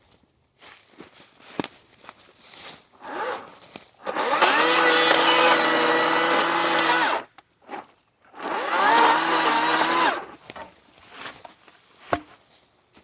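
Kobalt 40V Max battery-powered chainsaw run twice at full speed with a steady motor whine: about three seconds, then a shorter burst that spins up and winds down. Small clicks and knocks come between the runs.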